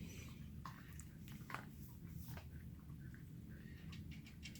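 Quiet room tone: a steady low hum with a few faint, short clicks and rustles.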